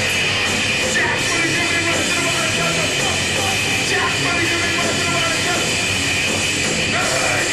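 Live heavy metal band playing an instrumental stretch, with loud distorted electric guitars over bass and drums in a dense, unbroken wall of sound.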